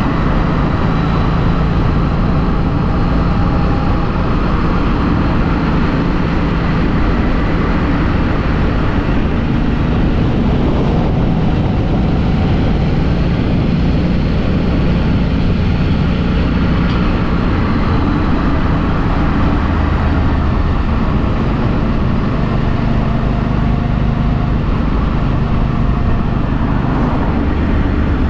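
2016 Harley-Davidson Street 500's V-twin running through its stock muffler while under way, heard from a helmet chin-mounted camera with wind and road noise. The engine note holds steady for stretches and steps up and down a few times as speed changes.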